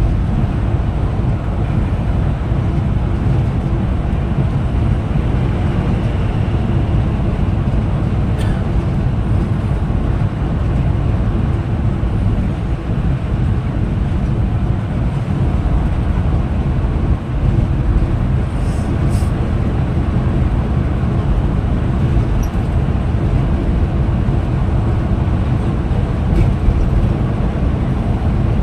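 Scania Metrolink multi-axle coach cruising on a highway, heard from inside: a steady low engine and road rumble, with a couple of faint ticks.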